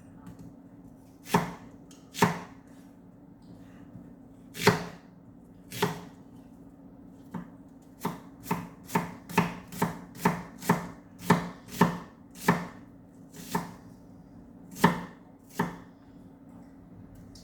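Knife chopping on a cutting board: about twenty single sharp chops at uneven spacing, coming in a quicker run of about two a second through the middle.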